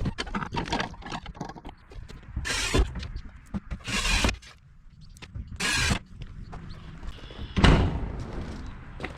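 Irregular handling and work noises: a series of short scrapes, clatters and knocks, with the loudest, a heavy thump, near the end.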